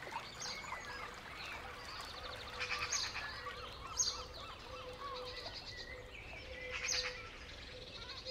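Small birds twittering and chirping, with a few louder, quick trills about three, four and seven seconds in.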